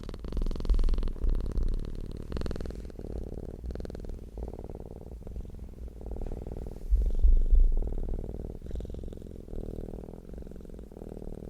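A domestic cat purring close to the microphone. The low, rumbling purr swells and eases with each breath and is loudest about a second in and again around seven seconds in.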